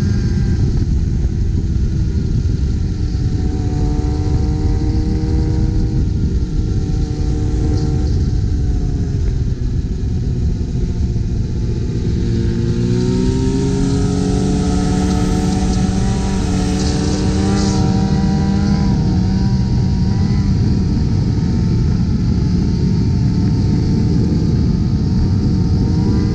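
Motorcycle engines running at highway speed under heavy wind and road rumble, the engine pitch rising about halfway through as the throttle opens.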